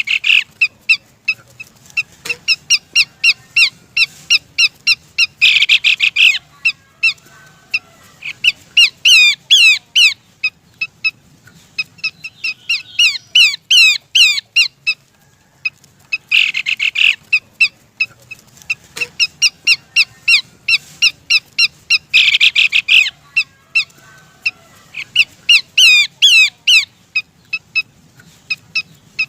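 Abbott's babbler (pelanduk semak) calling in a loud, looped lure recording: rapid runs of sharp, high notes broken by dense chattering bursts every few seconds and quick gliding whistles. The same sequence starts over about halfway through. The uploader presents it as a female calling to a male.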